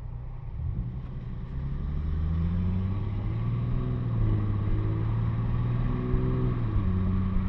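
Infiniti G37's 3.7-litre VQ37VHR V6 heard through a muffler- and resonator-delete exhaust under way. It picks up in revs and loudness about a second in, then holds a steady drone with small rises and dips in pitch.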